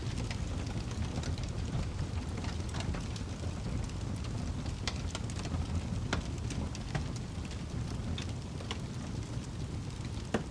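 Wood fire in a fireplace crackling: irregular sharp pops and snaps over a steady low rumble of the flames, with one louder pop near the end.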